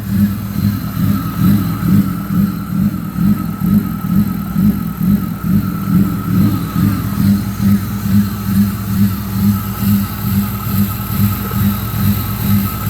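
BMW E36 engine idling unevenly, its sound swelling and dropping about twice a second. This car is known not to like idling and keeps stalling out.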